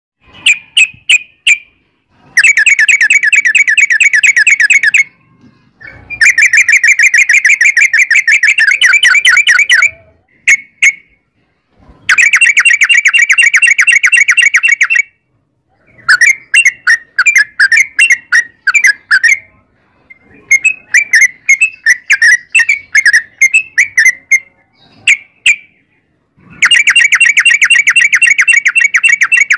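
Yellow-vented bulbul (trucukan) singing: long, very rapid trills of a few seconds each, four times, alternating with runs of short bubbling chirps and single clipped notes.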